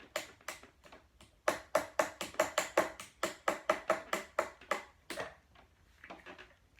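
Small toy hammer tapping rapidly on a hardened sand dig block, about five sharp knocks a second with a short ring, slackening and fading near the end. The block is still solid and the tapping chips off only a tiny piece.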